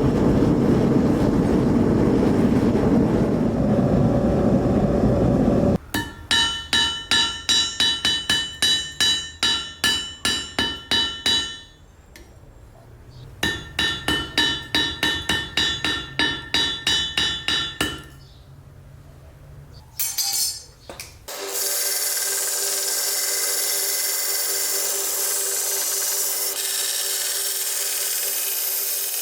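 Hammer blows on a steel knife blade, ringing at each strike, about two or three a second, in two runs. Before them a steady loud machine noise, and after them a steady grinding or rubbing noise.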